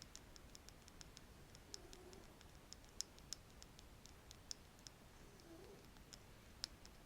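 A wooden stick tapping lightly and irregularly in close ASMR recording: many quiet sharp clicks, several a second, with a few louder taps.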